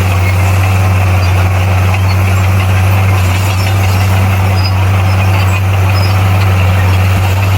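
Bulldozer's diesel engine running steadily at a constant, deep pitch.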